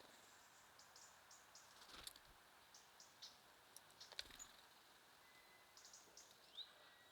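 Faint, short high chirps and call notes from small songbirds, scattered through, with a couple of sharp clicks about two and four seconds in, over a soft steady hiss.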